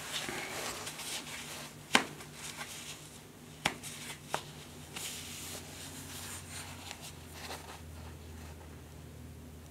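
Faint handling and rustling of materials with three sharp knocks, about two, three and a half and four seconds in, over a low steady hum.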